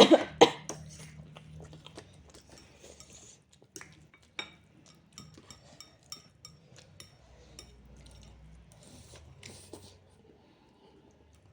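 Eating sounds: utensils clicking and clinking on dishes, with biting and chewing, during a race to eat hot akabare chilli food. A couple of loud coughs right at the start.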